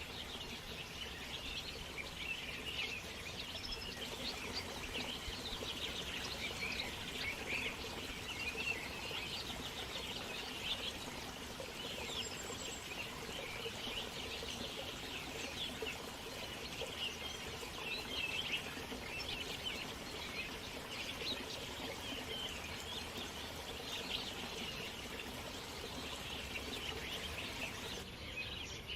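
Many birds chirping at once, a dense, steady chorus of short high calls.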